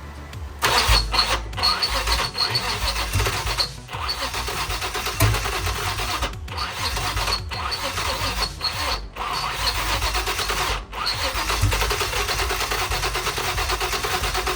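Turbocharged Nissan Maxima engine sound, starting suddenly about a second in and continuing with a few abrupt brief cutouts, mixed with background music.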